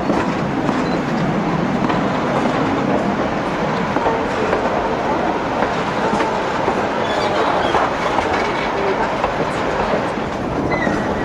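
Narrow-gauge passenger train rolling along the track, heard from on board: a steady running rumble of the wheels on the rails.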